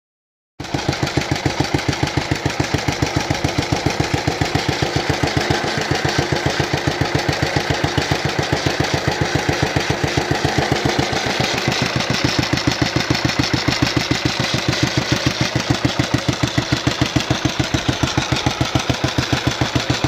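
Vintage British stationary engine running with a steady, even exhaust beat, cutting in abruptly about half a second in.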